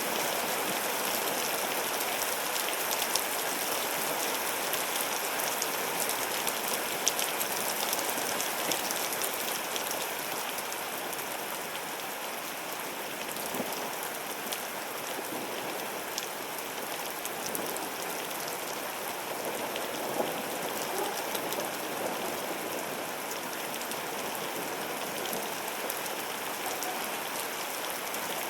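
Heavy rain pouring steadily during a severe thunderstorm, with many small sharp hits of drops on surfaces, easing a little about ten seconds in.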